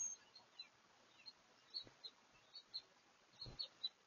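Faint birdsong: a string of short high chirps and a few down-slurred calls, with a soft low thump about three and a half seconds in.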